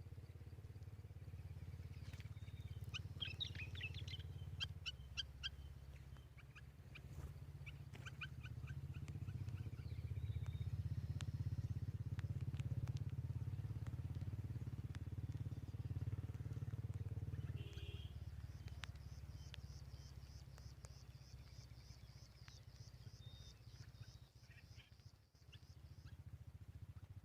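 Birds chirping in short bursts, and later a fast, high, evenly repeated trill lasting several seconds, over a steady low rumble.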